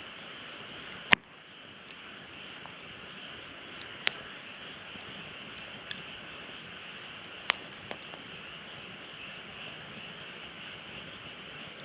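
Wood fire crackling, with a steady hiss and scattered sharp pops: a loud pop about a second in, then others around four and seven and a half seconds.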